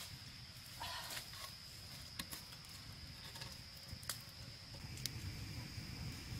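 A steady, high, thin insect-like drone, with a few scattered light clicks and knocks over a low rumble.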